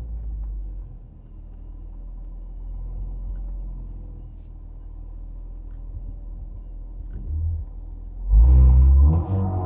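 Low, steady rumble of an Audi S5 Sportback's V6 engine and road noise inside the cabin while cruising. About eight seconds in comes a much louder, pitched surge lasting about a second.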